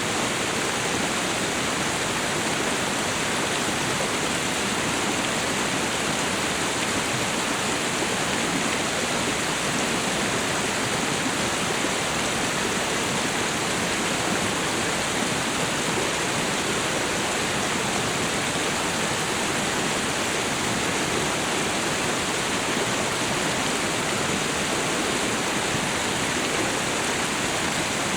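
Tropical waterfall and river: a steady, unchanging rush of falling and flowing water.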